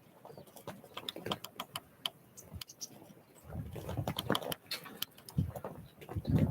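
Small wild birds at a feeding spot: irregular tapping and pecking clicks, with heavier soft thuds of birds landing or wings beating about three and a half seconds in and near the end.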